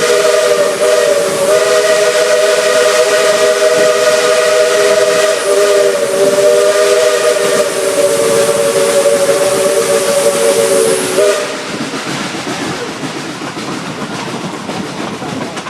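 Steam locomotive's chime whistle held in one long blast, a steady chord of several notes that cuts off about eleven seconds in, followed by a hiss of escaping steam.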